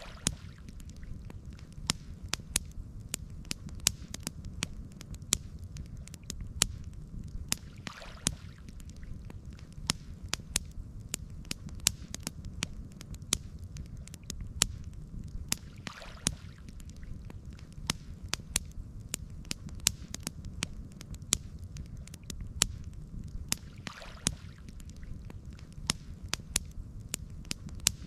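Campfire burning, with frequent sharp, irregular crackles and pops over a steady low rumble of the flames.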